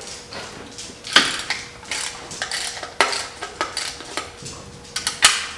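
Metal hand tools and engine parts clinking and knocking together, a scattered run of sharp clinks with the loudest about one, three and five seconds in.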